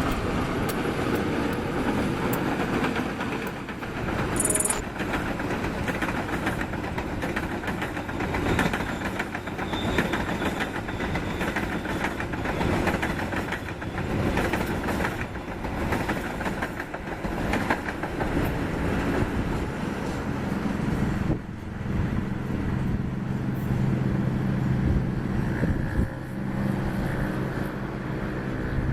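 Train passing close by, its wheels clattering rapidly and continuously over the rail joints. Later the clatter thins out and a steady low hum takes over.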